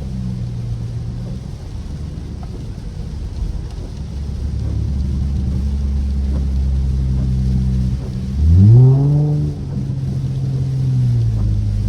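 Straight-piped SXT's V6 exhaust, heard from inside the car, drones steadily while cruising and gradually gets louder. About eight seconds in, the revs climb sharply and loudly, hold, then drop to a lower pitch near the end as it shifts up.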